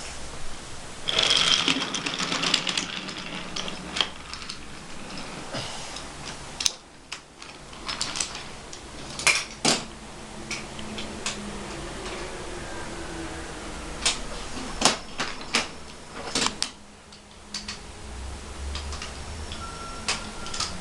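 Wooden toy trains and trucks handled on wooden track: a rattling run a second or two in, then scattered sharp clicks and clacks.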